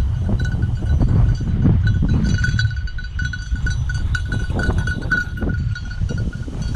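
Bell on a running bird dog, ringing in quick uneven jingles, with a heavy rumble of wind on the microphone.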